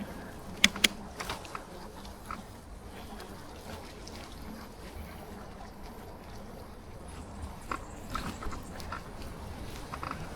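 Steady low rumble and hiss of a bicycle rolling along a wet road. Two sharp clicks come just under a second in, and scattered light ticks near the end.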